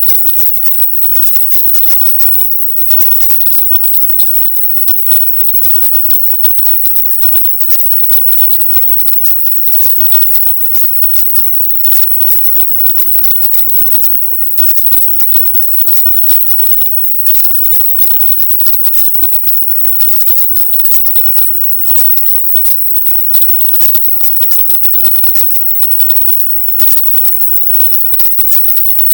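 Layered 'silent subliminal' audio: a loud, dense hiss, strongest in the highest treble and broken by frequent split-second dropouts.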